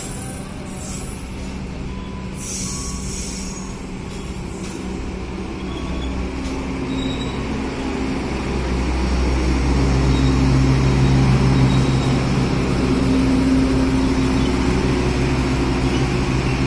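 A train running through the station: faint high wheel-on-rail squeals in the first few seconds, then a steady low hum that grows louder about halfway through as the train comes close.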